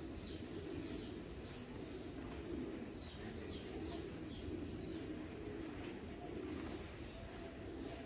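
Birds calling: a steady low cooing with short, falling high chirps scattered through it.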